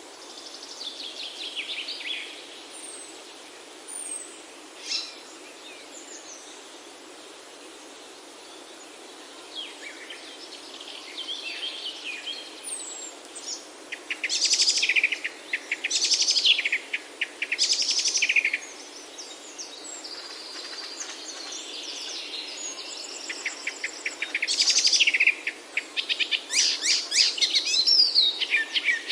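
Songbirds singing: phrases of fast trills and chirps that come and go, louder and busier in the second half, over a steady soft background hiss.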